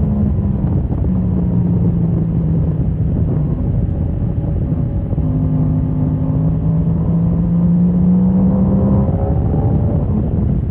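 Motorcycle engine running at track speed under a heavy wind rumble on the microphone. About halfway through, its pitch climbs slowly for several seconds.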